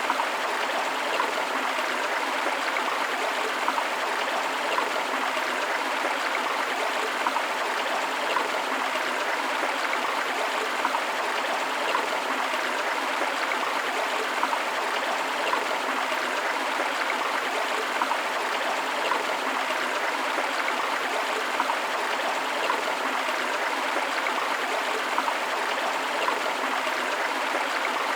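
Flowing river water running steadily over rocks, an even rushing with small splashes and gurgles scattered through it.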